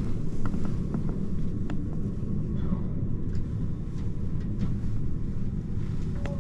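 Interior running noise of a 789 series 1000 limited express electric train in motion: a steady low rumble of the wheels on the rails, with a few faint clicks through it.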